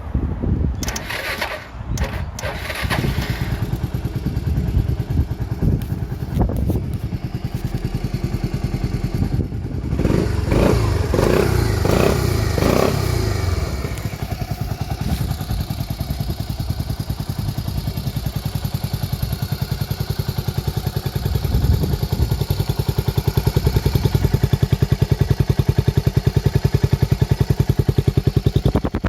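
Suzuki Skywave 250 (CJ42A) scooter's single-cylinder four-stroke engine running at idle, revved up and back down a few times about ten seconds in, with a few knocks in the first seconds.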